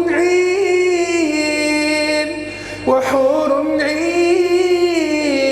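A man's voice in melodic Qur'anic recitation, holding drawn-out, ornamented notes on the phrase 'wa hurun 'in'. Two long sustained phrases are broken by a brief breath near the middle, over a faint steady hum.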